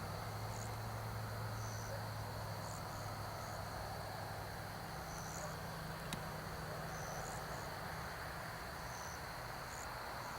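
Evening insect chorus: a steady high trill with short chirps repeating every second or two, over a low hum that fades out about halfway through. A single faint click about six seconds in.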